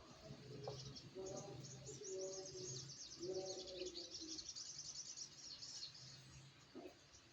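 A small bird, the untamed sogok ontong (little spiderhunter), giving a fast run of high, thin chirps that starts about a second in and fades out some five seconds later.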